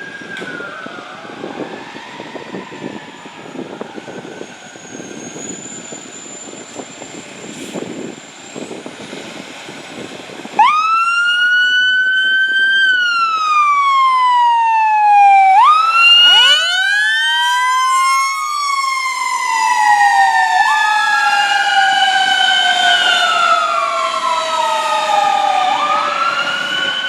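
Fire apparatus sirens wailing. A fainter siren sounds over road noise at first. About ten seconds in, a loud siren starts suddenly, rising and then slowly falling in long wails, and a few seconds later a second siren joins so the two wails overlap.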